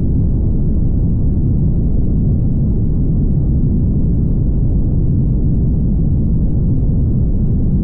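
Steady low rumble of road and wind noise from a car driving along a highway, even and unchanging throughout.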